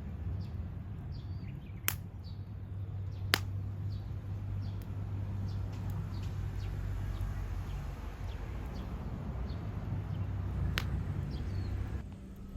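Wood campfire crackling, with three sharp pops over a steady low hum, and faint short chirps in the background.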